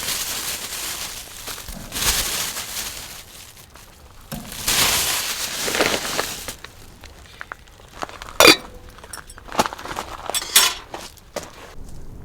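Tableware clinking: several sharp clinks with a short ring, the loudest about two thirds of the way in and a cluster a couple of seconds later. Before them come three stretches of hissing noise.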